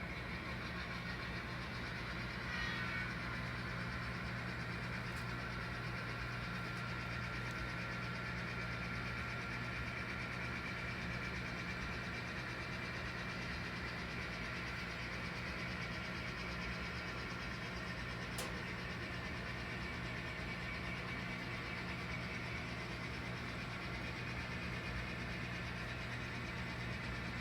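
N scale model train running steadily on the layout, a constant engine-like hum with no change in pace, broken by two brief clicks about five seconds in and again a little past halfway.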